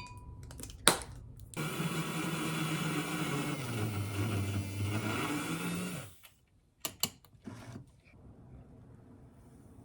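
A small electric motor appliance switched on with a click, running loud and steady for about four and a half seconds, its hum dipping in pitch partway through as if under load, then stopping, followed by a few clicks as it is handled.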